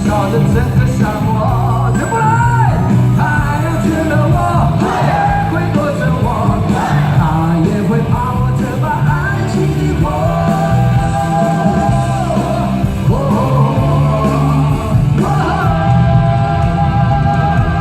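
Live rock song with male lead vocals sung over a full band with heavy bass. Long notes are belted and held from about ten seconds in and again near the end.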